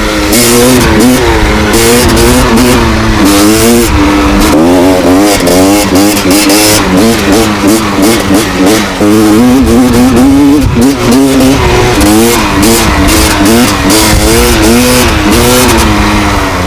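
Gas Gas EC250 two-stroke enduro motorcycle engine being ridden hard, its revs rising and falling constantly with the throttle. The engine is loud throughout, with short dips between bursts of throttle.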